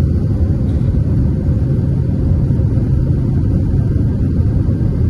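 Steady low rumble of an Airbus A320 heard inside the cabin, the engines and airflow running at an even level.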